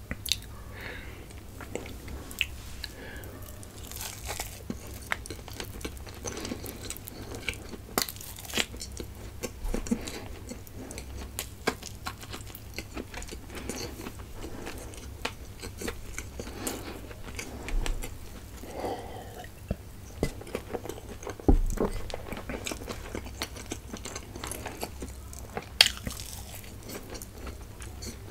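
Close-miked eating: biting and chewing with moist mouth sounds, irregular crunches and clicks, the sharpest snaps about two-thirds of the way in and again near the end.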